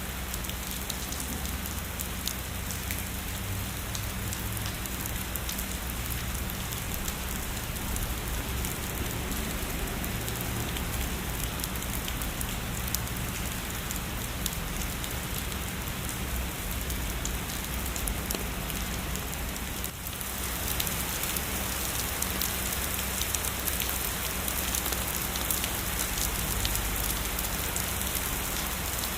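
Heavy rain falling steadily, a dense hiss of rain with many sharp individual drop ticks. It grows slightly brighter and louder about two-thirds of the way through.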